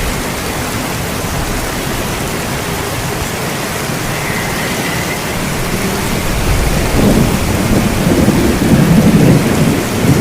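Steady rain, with a low rumble of thunder building over the second half and loudest near the end.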